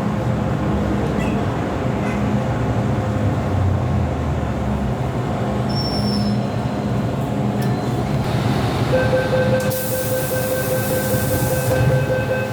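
MTR M-Train metro running on the track with a steady rumble. About three-quarters of the way in, a high steady whine or squeal joins it, briefly accompanied by a hiss.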